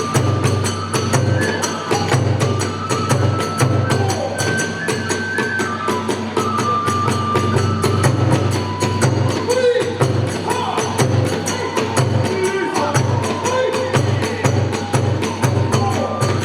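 Kagura festival music played by drum, hand cymbals and bamboo flute. A fast, steady pulse of drum beats and cymbal clashes runs under held high flute notes.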